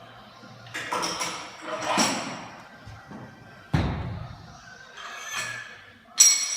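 Thuds and clanks of gym equipment being set down and handled: several knocks, one heavy low thud midway, and a bright metallic clank near the end, with music playing in the background.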